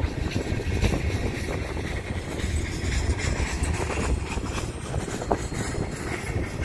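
Train rolling past: a steady low rumble with scattered clicks and knocks.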